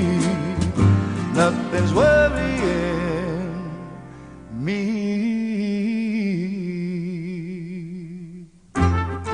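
A pop song with a male singer backed by guitar and band. The accompaniment thins out while one long note with vibrato is held for about four seconds, and the full band crashes back in near the end.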